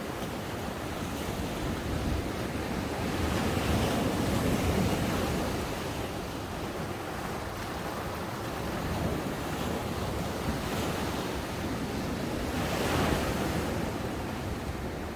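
Ocean waves breaking on a beach in a continuous wash of surf, swelling as a wave breaks a few seconds in and again shortly before the end, with some wind on the microphone.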